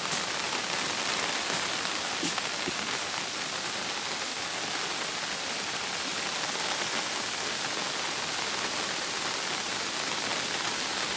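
Steady rain falling on vegetation, an even hiss that does not let up.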